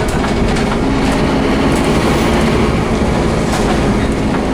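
Scania DC9-16 five-cylinder diesel of a Scania OmniCity double-decker bus working hard, a loud steady drone with rattles and clatter over it; the engine note drops slightly about a second in.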